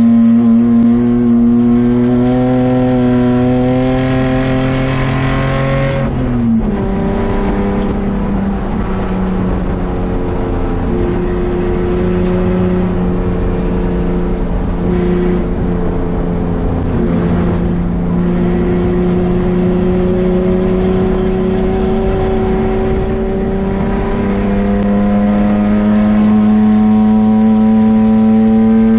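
BMW 635CSI's 3.5-litre straight-six race engine heard inside the stripped cabin under track driving. The engine note climbs, drops sharply about six seconds in, holds lower through the middle with small changes, and climbs again over the last few seconds.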